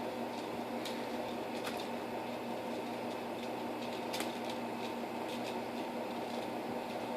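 Steady mechanical hum in a small room, with a few faint light clicks and taps scattered over it.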